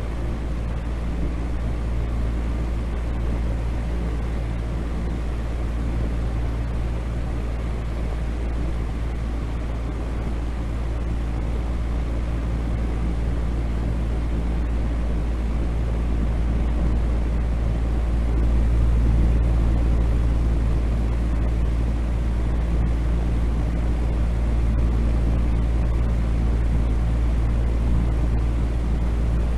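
Steady sleep-noise track: a continuous deep rumble with a faint low hum in it, thinning out toward the high end, rising a little in level about two-thirds of the way through.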